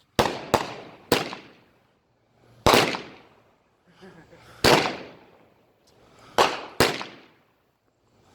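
Consumer fireworks going off: seven sharp bangs at uneven intervals, each trailing off in an echo, with a quick double bang near the start and another near the end.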